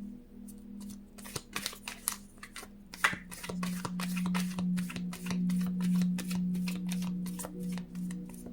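Tarot cards being shuffled by hand: a rapid, irregular run of light card clicks and flicks, over a steady low drone that grows louder about three seconds in.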